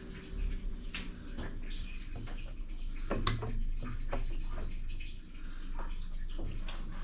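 Irregular light knocks and clicks from washing-machine parts being handled during cleaning, over a faint sound of water.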